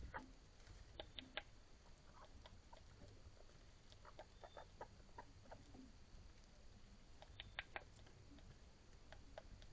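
Faint scattered clicks and taps of small rodents, chipmunks or squirrels, foraging, with two quick runs of three sharp clicks, one about a second in and one near the end.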